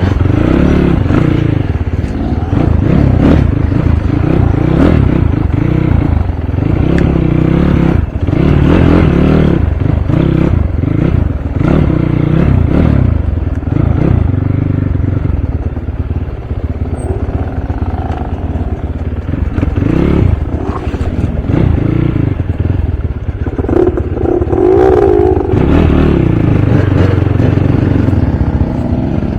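Dirt bike engine revving up and falling back again and again as the bike is ridden, the throttle opening and closing every second or two.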